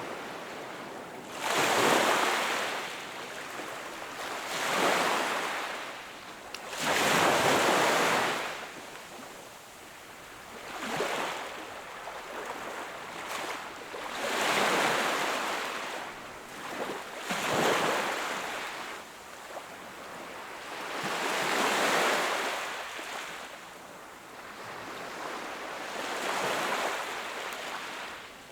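Sea waves breaking and washing up the shore, in about eight swelling surges a few seconds apart, with a softer wash of water between them.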